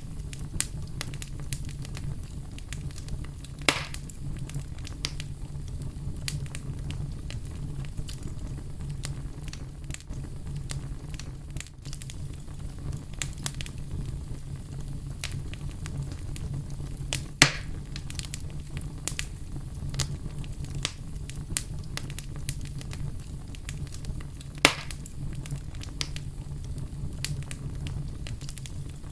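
Fire crackling steadily over a low rumble, with many small snaps and three louder pops spread through.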